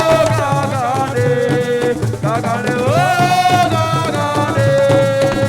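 Assiko band music: a singer holding long, sliding notes over a steady pattern of hand drums and percussion.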